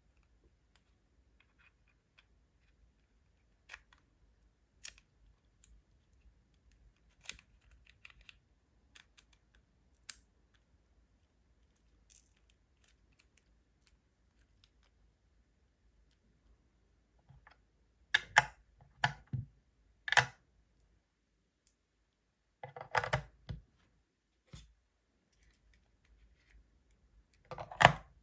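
Scattered light clicks, then louder clusters of clacks and rattles of small hard objects being handled, around two-thirds of the way in and again near the end.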